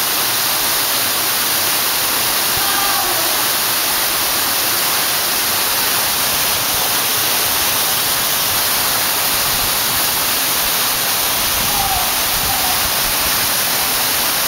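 Steady rushing roar of a large waterfall close by, even throughout. A few faint, short wavering calls show above it around three and twelve seconds in.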